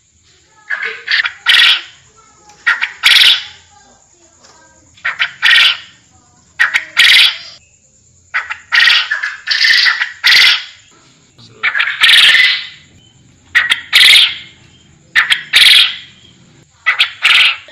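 Forest quail (puyuh hutan) calling over and over: loud, harsh notes in groups of two or three, repeating about every two seconds.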